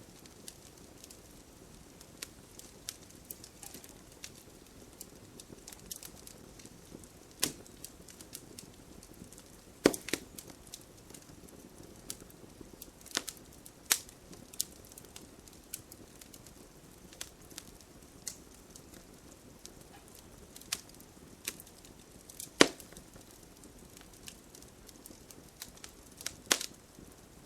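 Campfire burning with a soft low hiss and irregular sharp crackles and pops of the wood, a few of them loud.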